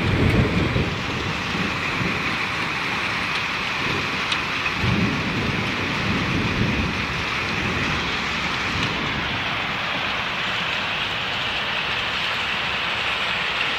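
Heavy rain falling steadily in an even hiss, with deep rumbles about a second in and again in the middle.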